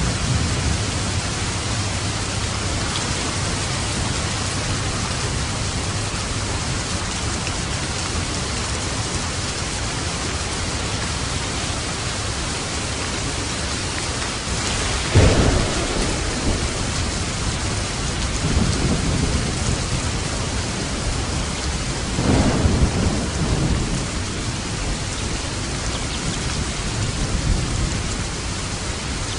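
Steady rain falling, with two short claps of thunder, one about halfway through and another a few seconds later.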